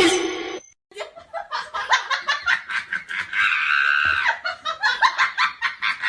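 A person laughing hard in rapid bursts, held briefly a little after the middle.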